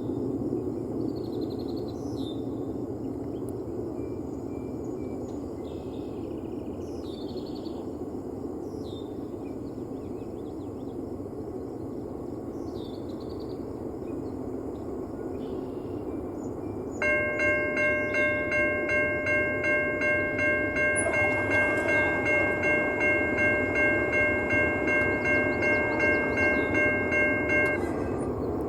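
Railroad grade-crossing bell starts suddenly about two-thirds of the way through and rings in a steady pulse about twice a second, then stops just before the end. Under it is a steady low rumble, and a few bird chirps come in the first half.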